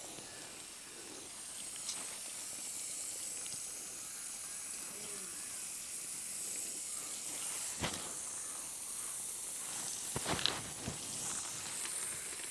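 Steady high-pitched outdoor hiss of a farm field, with a few soft knocks and rustles about two, eight and ten to eleven seconds in.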